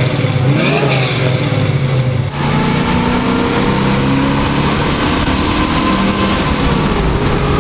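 Chevrolet Camaro Z28's V8 running on the road, heard from inside the car, with a loud steady exhaust note. About two seconds in the sound changes abruptly to a higher, steady engine note that holds with a slight dip in pitch near the end.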